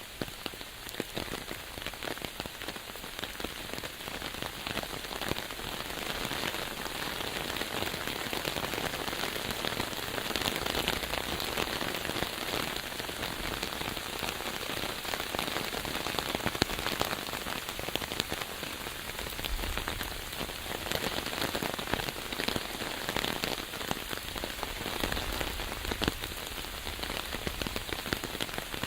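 Steady rain falling, with many separate drops heard as fine ticks over an even hiss.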